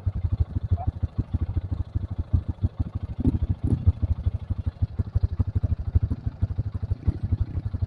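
Trail motorcycle engine running at low revs, a rapid low pulsing beat.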